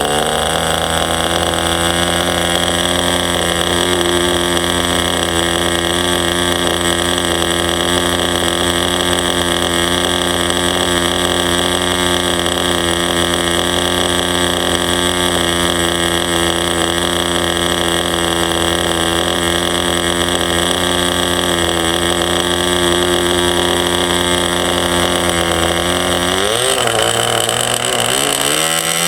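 Enya .15CX 2.45 cc two-stroke glow engine running at a steady high speed on the bench, then speeding up, its pitch rising near the end. It is a new engine being run in, with three washers under the glow plug to lower its high compression.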